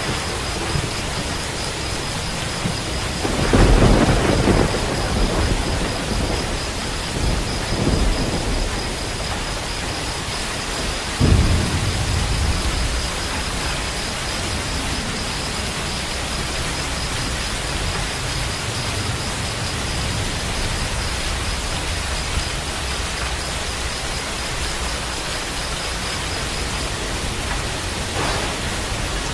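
Steady heavy rain with rolls of thunder: a long rumble about four seconds in, shorter ones near eight and eleven seconds, the eleventh-second one breaking suddenly, and another near the end.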